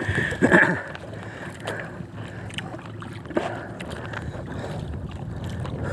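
Steady wind and water noise aboard a small fishing boat at sea, with a low steady hum and a few short knocks against the hull or deck.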